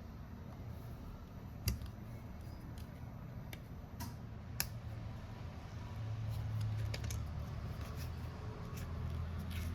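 Scattered light clicks and taps of small hand tools handling a smartphone during a repair, a few isolated ticks over several seconds, over a steady low hum.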